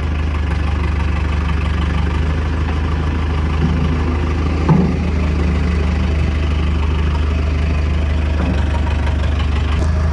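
Heavy diesel engine running steadily close by, with one short knock or clunk about halfway through.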